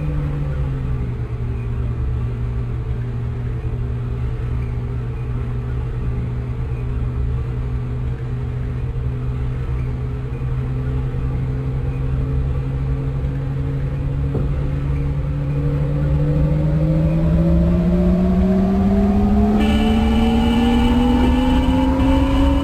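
Lisbon Metro ML90 train running, with a low rumble under the whine of its traction motors. The whine drops a little at the start, holds steady, then climbs in pitch through the last several seconds as the train accelerates, and a higher whine joins in near the end.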